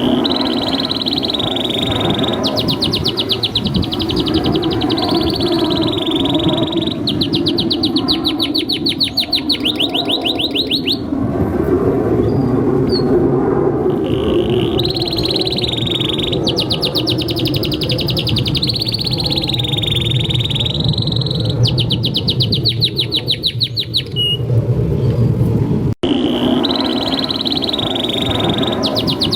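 Domestic canary singing a long, fast song of rapid rolling trills and warbled phrases, with short pauses between phrases. A steady low rumble runs underneath, and the sound drops out for an instant a few seconds before the end.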